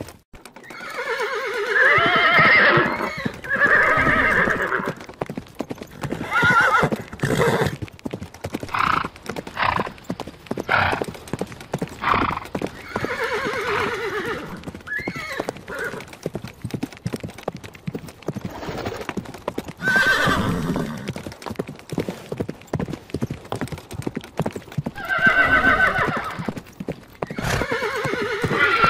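Horse neighing and whinnying several times, with hooves clip-clopping in a steady run of knocks between the calls.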